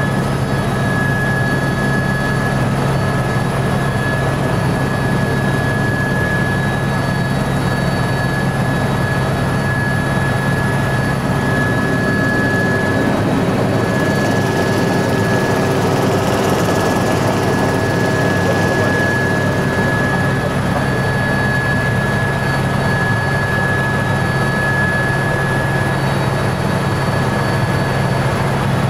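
Helicopter in flight, heard from on board: a steady drone of rotor and engine with a constant high whine over it.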